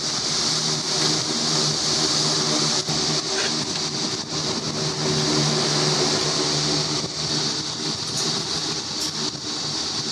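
A motor-driven machine running steadily: a low, even hum under a strong high hiss.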